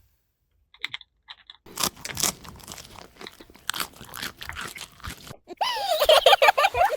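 Crunchy chewing sound effect, a dense run of crisp crunches lasting about three and a half seconds, as the toy characters eat. Near the end, a loud, high, wavering pitched sound starts up.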